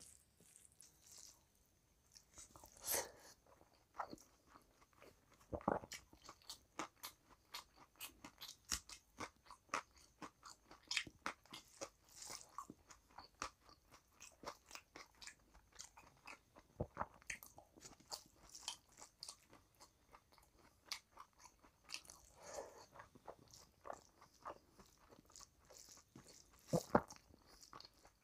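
Close-up chewing and crunching of rice and curry eaten by hand: a dense run of short clicks, with a few louder crunches along the way, and fingers squishing rice on the plate in between.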